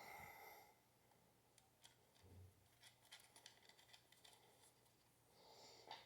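Near silence with faint scattered clicks and light rustling of parts being handled, and a soft low thump about two seconds in.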